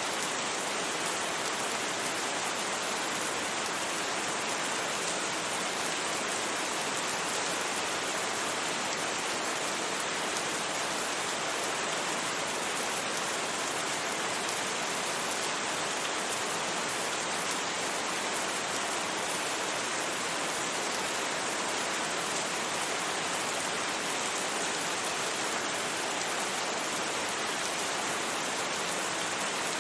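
Steady rain, an even unbroken hiss with no thunder and no single drops or other events standing out.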